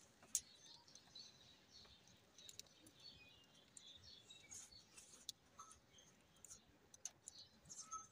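Flock of budgerigars chirping faintly in a cage: scattered short twitters and chirps, mixed with small clicks. One sharp click about half a second in is the loudest sound.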